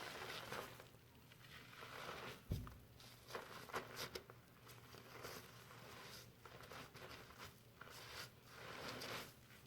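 Fingers scrubbing foamy shampoo lather through hair: soft, irregular crackling and squishing rustles. There is one low bump about two and a half seconds in.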